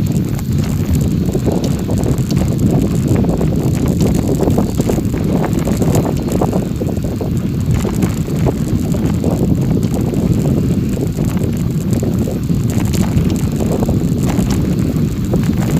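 Steady low rumble of travel over an unpaved forest road, with scattered small clicks and rattles and wind buffeting the microphone.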